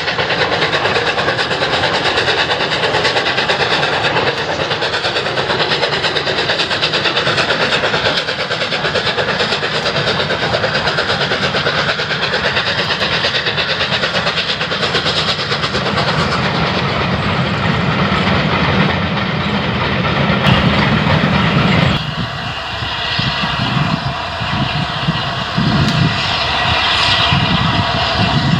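Steam-hauled passenger train, the LNER A3 Pacific Flying Scotsman, running by with the clatter of wheels over rail joints. About 22 seconds in the sound changes abruptly: a steady high tone over rhythmic low pulsing.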